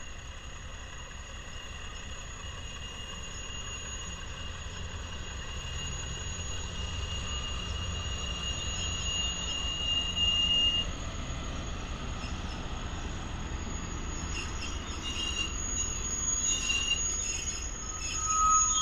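Diesel-powered passenger train passing close by. The locomotive's low rumble builds to its loudest about ten seconds in, then the passenger cars roll past on steel wheels. A steady high wheel squeal cuts off suddenly as the locomotive goes by, and shorter squeals come and go under the cars near the end.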